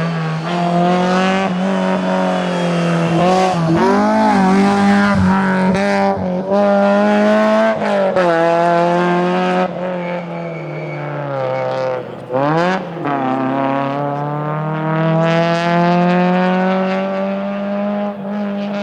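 Rally car engine at full throttle, its pitch climbing and dropping sharply through several gear changes. About twelve seconds in the revs fall away under braking, then rise steadily again as it accelerates out.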